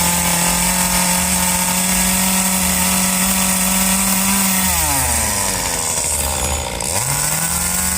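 A small engine running fast at a steady pitch. About halfway through its revs drop sharply, then pick back up to the same pitch shortly before the end.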